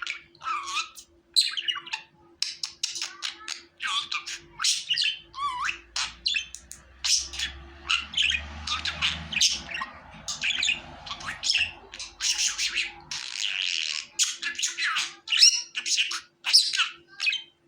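Budgerigars chattering nonstop, a dense run of quick chirps, squawks and warbled notes. A faint steady hum lies underneath.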